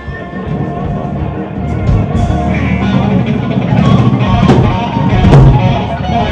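Rock band playing live, guitar and drum kit, getting louder and ending on two heavy drum hits.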